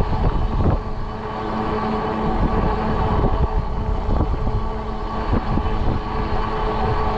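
Wind rumbling on the microphone while riding a fat-tire electric bike, over a steady hum from the bike's motor and tyres rolling on pavement, with a few small bumps.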